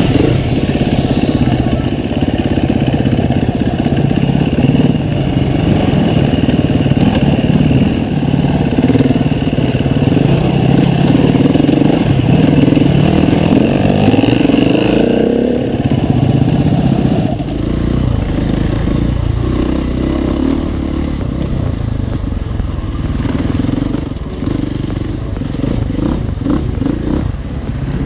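Enduro dirt bike engine running under varying throttle while riding off-road, its pitch rising and falling throughout. The sound changes abruptly about two-thirds of the way through.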